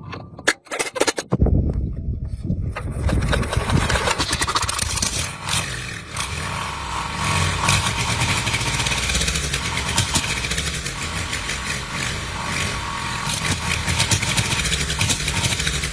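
An engine starts about a second and a half in, after a few sharp clicks, and then keeps running steadily.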